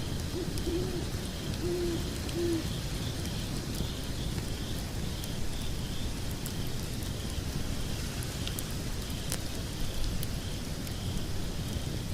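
Wood fire burning in a fireplace: a steady low rumble of flames with scattered sharp crackles and pops. Two short low hoots sound in the first few seconds, over faint high chirping.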